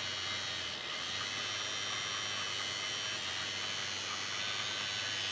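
Electric motor and gear train of a Roco Pennsylvania shark-nose model locomotive running on bench test leads, a steady high-pitched whine; the motor runs after cleaning and fresh lubrication.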